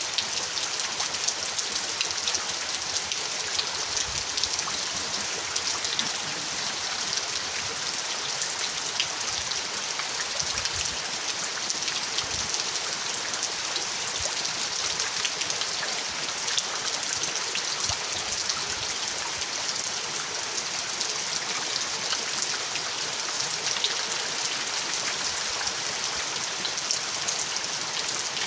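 Steady rain: a dense, even hiss of falling drops with many small drop ticks scattered through it.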